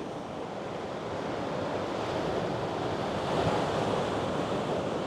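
Ocean surf on a rocky shore: a big wave surging in, swelling to a peak about three and a half seconds in and easing off, with wind on the microphone.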